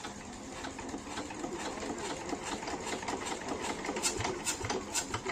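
Single-cylinder 7 HP diesel water-pump engine running with a fast, even mechanical chatter.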